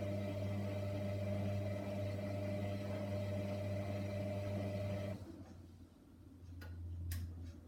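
Hoover washer dryer's drum motor running with a steady mechanical hum during the main wash, then stopping abruptly about five seconds in. A lower, quieter hum remains, with two faint clicks near the end.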